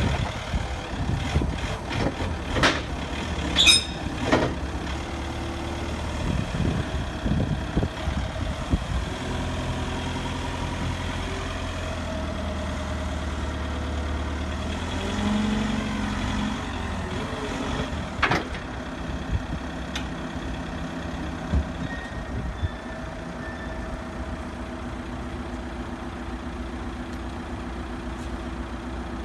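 Truck engine running at low revs, with several sharp knocks in the first few seconds and another about eighteen seconds in.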